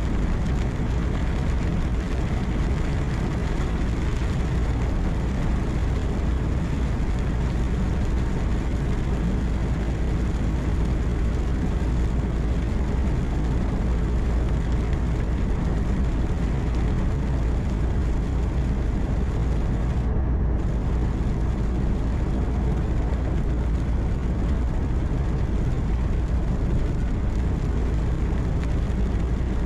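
Truck cab interior at steady cruising: a continuous low engine drone mixed with tyre and road noise, unchanging in level.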